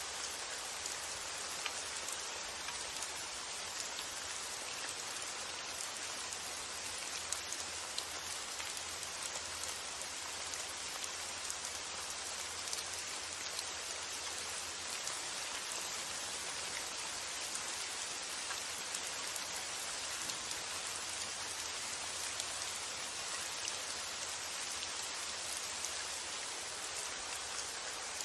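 Steady rain falling, an even hiss with scattered individual drop ticks, unchanging throughout.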